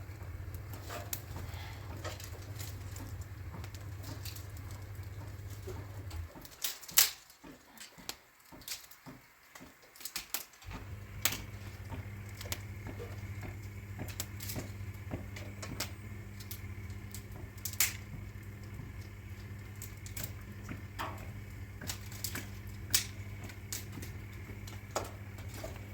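A steady low electric hum that breaks off for about four seconds, from around six seconds in, then resumes, with scattered sharp clicks and knocks over it.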